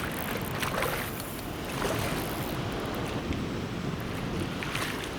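Wind buffeting the microphone over moving water, a steady rushing haze with a few brief sharp sounds through it.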